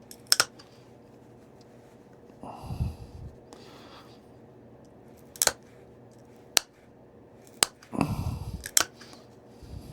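Stone point being pressure flaked by hand: a handful of sharp, separate clicks as flakes snap off under the flaker, with brief rustling of handling between them.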